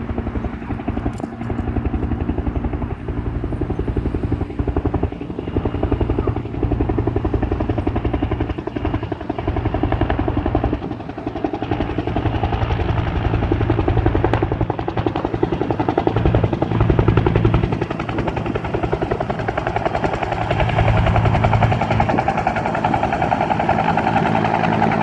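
Firefighting helicopter's rotor chopping steadily, with a fast pulsing beat and a low engine drone, growing louder in the last few seconds.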